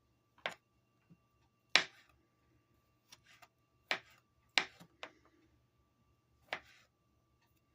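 Kitchen knife striking a cutting board while fruit is cut up: about six sharp, irregular knocks.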